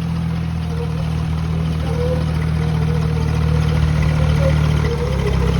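Swaraj 855 tractor's diesel engine running steadily, slowly getting a little louder.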